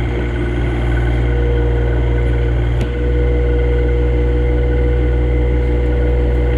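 A compact John Deere tractor's engine runs steadily with an even drone, and there is one brief click about three seconds in.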